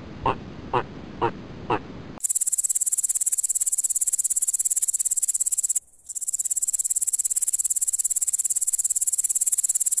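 High-pitched insect stridulation, a dense and very fast even trill, starting abruptly about two seconds in and breaking off briefly near the six-second mark. Before it, a run of short calls comes about twice a second.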